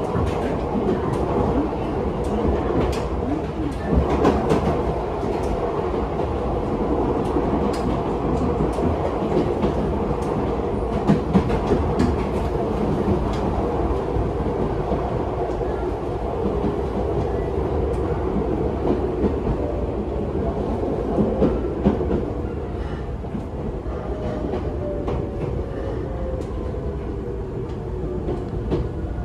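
Running sound of an Ichibata Electric Railway 1000 series electric train heard inside the passenger car: a steady rumble of wheels on rail with irregular clicks and knocks over the rail joints. Near the end a faint motor whine falls in pitch as the train slows toward the next stop.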